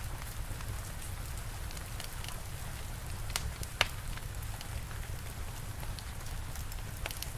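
Steady rain with a low rumble under it, and a fire crackling with scattered sharp pops, the loudest about four seconds in.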